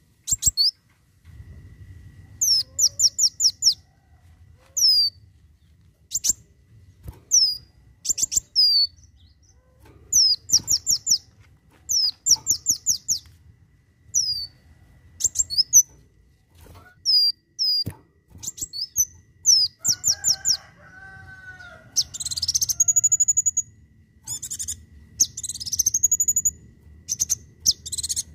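A kolibri wulung sunbird singing its rapid-fire 'tembakan' song: bursts of short, high, downward-slurred notes in quick succession, with longer rising-and-falling whistled phrases near the end.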